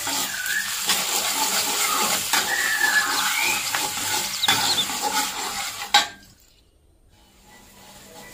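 Squid and shallots sizzling in hot oil in a wok while a metal spatula stirs them, with clicks and scrapes of the spatula against the pan. The sizzle cuts off suddenly about six seconds in, leaving only faint sound.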